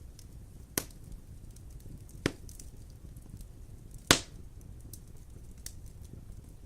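Wood fire in a fireplace burning with a steady low rumble and light crackling, broken by three sharp pops, the loudest about four seconds in.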